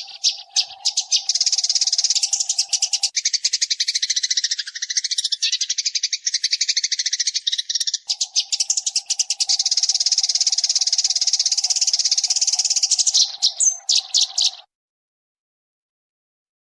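Eurasian tree sparrow chattering in a rapid, tight, unbroken stream of clear chirps, with a steady hum underneath at times. It cuts off suddenly near the end, leaving silence.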